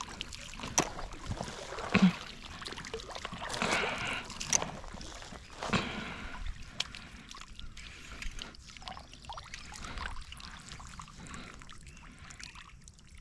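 Water trickling and splashing around a kayak, with a few light knocks against the hull while a heavy fish is being fought on the line.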